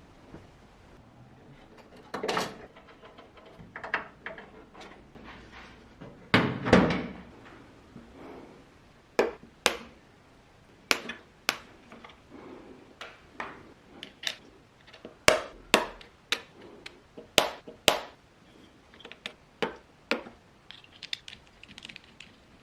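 Irregular clicks, taps and knocks of small hard parts being handled and fitted by hand, with a couple of short scraping or rubbing sounds early on and a quick run of light taps near the end.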